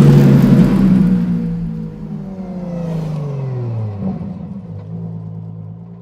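Ferrari Purosangue V12 through a Tubi Style aftermarket exhaust, loud at first with the revs falling away over about four seconds. It then runs steadily at lower revs and fades out near the end.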